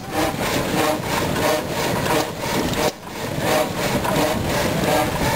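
Old engine-driven machinery running with a fast, even beat of noisy strokes, briefly dropping off about three seconds in.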